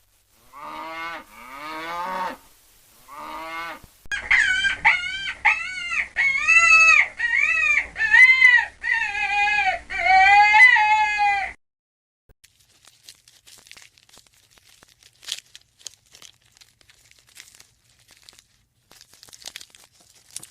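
Farm animals calling: a few pitched calls, then a quick run of about ten loud, arching calls that stops suddenly, followed by faint scattered clicks and rustles.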